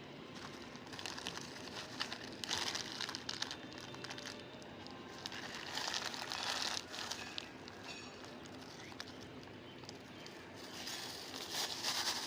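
Plastic garbage bag crinkling and rustling as it is handled and filled with collected plastic litter, in irregular bursts.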